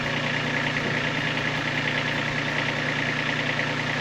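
Kubota B2301 compact tractor's three-cylinder diesel engine running steadily, with no change in speed.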